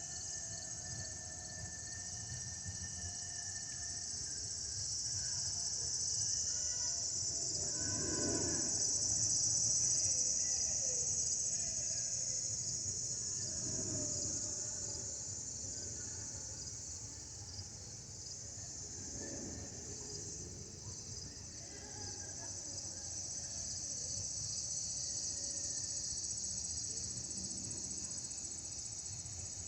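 Crickets trilling steadily in a high, continuous chorus, over a faint low rumble that swells and fades, with thin whistle tones, from an Airbus A320 jet.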